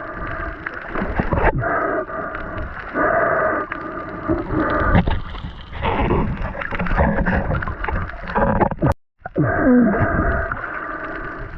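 Muffled underwater water noise picked up by a diving camera: surging, gurgling water sounds that come and go in uneven swells. About nine seconds in the sound cuts out abruptly, then resumes.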